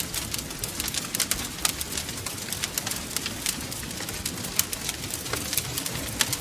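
Wood fire crackling: many irregular sharp pops and snaps, several a second, over a steady low rumble and hiss of the flames.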